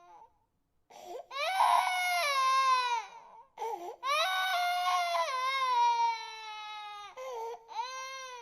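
Infant crying: long wailing cries with pitch falling at the end of each, broken by short catches of breath, the longest lasting about three seconds.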